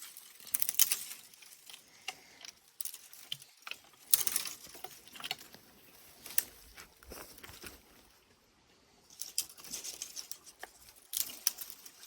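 Footsteps crunching through dry leaves and brush, coming in irregular clusters of crackles with quieter pauses between them.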